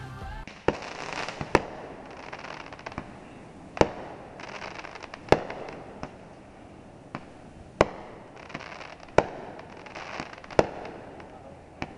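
Fireworks going off: sharp bangs every one to two seconds, with crackling in between.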